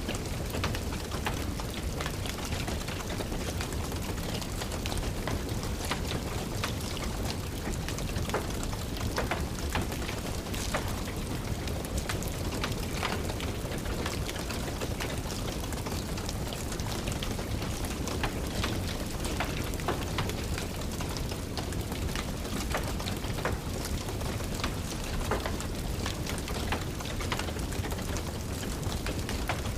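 Steady rain mixed with a crackling wood fire: a constant rushing hiss under frequent short, sharp pops and snaps.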